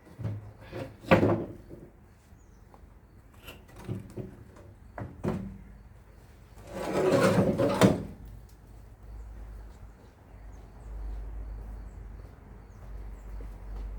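Knocks and clunks of old truck parts being handled during dismantling, with a longer scraping sound lasting about a second, some seven seconds in.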